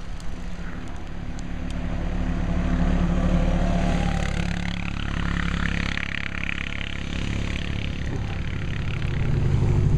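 Four-wheelers (ATVs) fitted with snow plows coming down a snowy road, their small engines running. The engines grow louder about three seconds in and again near the end.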